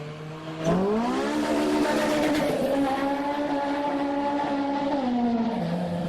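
Honda K20 four-cylinder engine revved hard: the revs jump sharply about two-thirds of a second in, hold steady at high rpm for about four seconds, then drop back down near the end.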